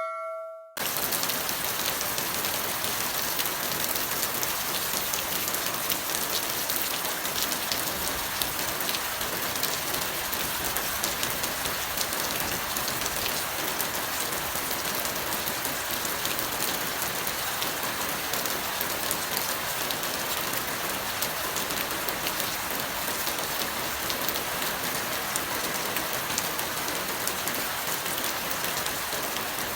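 Steady heavy rain: a dense, even hiss with the fine patter of drops. It starts just under a second in, as the ringing tail of a bell-like chime dies away.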